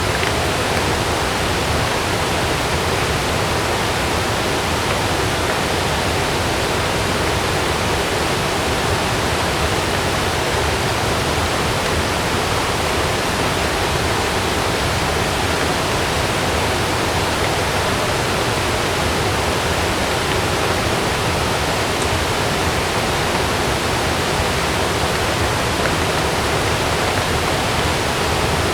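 Heavy rain falling steadily: a loud, dense, even hiss.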